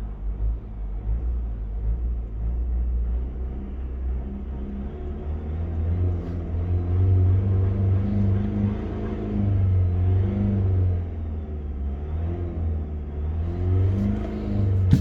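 Car engine running with a low rumble, revved up and let fall back several times in the second half. The revs end in a sharp click.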